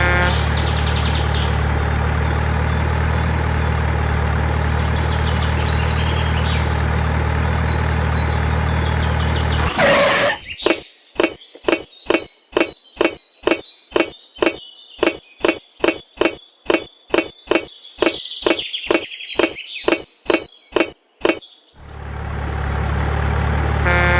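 An engine-like motor drone runs steadily for about ten seconds. It gives way to sharp, regular knocks about twice a second for about eleven seconds, and the drone comes back near the end.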